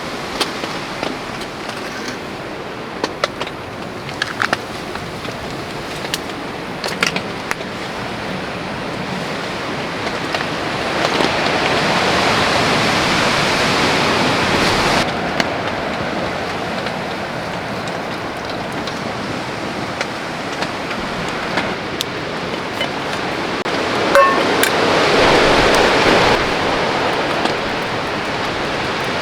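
Steady rain with wind gusting through the forest, the rush swelling louder twice. Scattered sharp ticks of drops land in the first several seconds.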